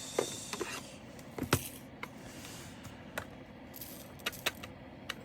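Small plastic clicks and the crinkle of plastic zip bags, from diamond painting resin drills being handled and bagged. The clicks come singly every second or so, with brief bursts of rustling between them.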